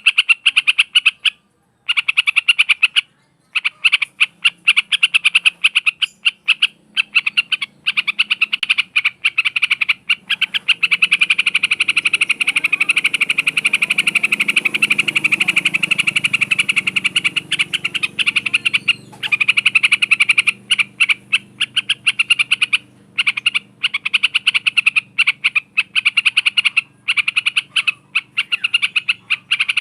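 An animal calling in long trains of rapid, clicking pulses, high-pitched and loud, with short breaks between runs.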